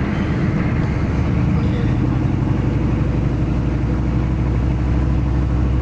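Turbocharged 6.2 L diesel V8 in a Chevy pickup running under way, a steady low drone.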